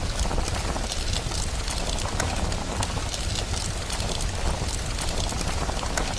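Rain-and-fireplace ambience: a steady rain hiss over a low rumble, with a fire crackling in many small, irregular pops.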